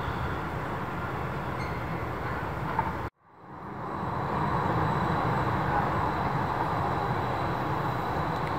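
Jet engine noise from a Boeing 737-800 airliner, a steady noise with a low rumble. About three seconds in the sound cuts out abruptly and fades back in over about a second.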